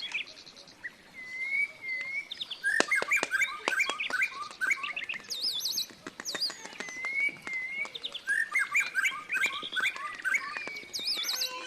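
Birds chirping and whistling: quick runs of sharp chirps mixed with short whistles that swoop up and down, repeating throughout.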